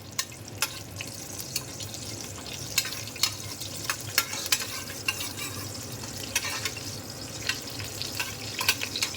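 Whole spices frying in hot oil and ghee in a pan, with a steady sizzle. A spoon stirs them, scraping and clicking against the pan at irregular moments.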